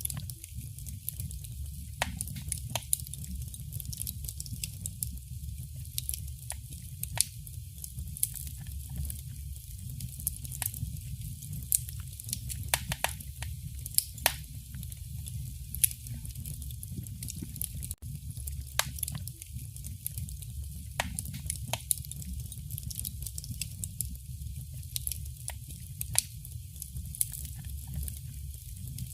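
Wood fire burning in a fireplace: irregular sharp crackles and pops, several a second and some louder than the rest, over a steady low rumble of the flames.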